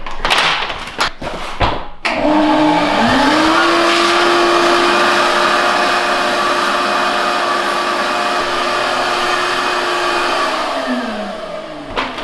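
Vacuum cleaner switched on about two seconds in, its motor whine rising as it spins up, then running steadily with a rushing suction noise; near the end it is switched off and winds down with a falling whine. A few knocks come before it starts.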